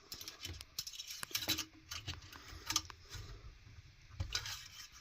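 Scattered light clicks, taps and scrapes of hands handling small hard objects at close range, irregular and uneven in loudness, with the loudest around a second and a half, near three seconds, and just past four seconds in.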